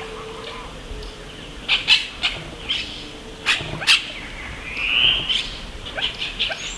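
Wild bird calls: a string of short, sharp chirps, then one rising call about five seconds in, with a few more chirps near the end.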